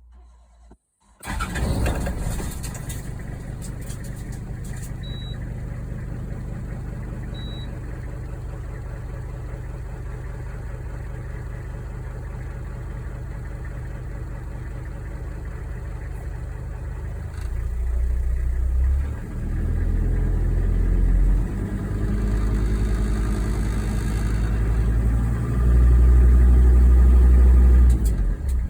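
Toyota Land Cruiser PZJ77's 1PZ five-cylinder diesel starting about a second in and running steadily, with abnormal noise from a damaged flywheel. In the second half it goes louder several times, in spells of a second or two, the last and loudest near the end.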